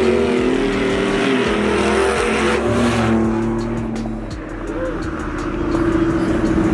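Truck engines revving and driving by, their pitch rising and falling in the first couple of seconds and then settling into a steady drone.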